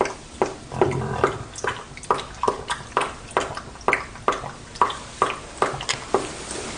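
Mountain lion kitten eating, making wet smacking and lapping mouth sounds in a steady rhythm of about two to three a second.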